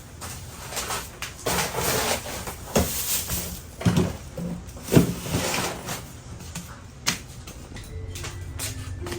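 Household handling noises from putting groceries away: a stretch of rustling, then several separate knocks and clunks, like items set down and a cupboard or door worked.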